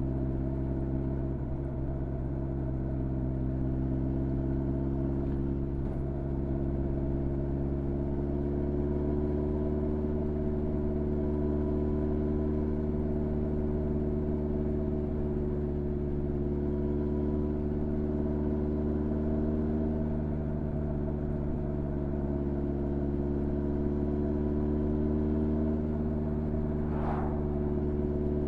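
Honda CB1300's inline-four engine running steadily at low revs while riding, its pitch rising slightly about a third of the way in and then holding even.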